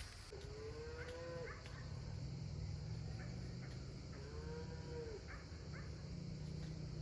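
Cow mooing twice, two short calls about three seconds apart, over a low steady hum.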